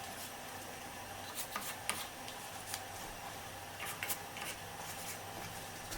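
A few faint, light clicks and taps over a steady low hum.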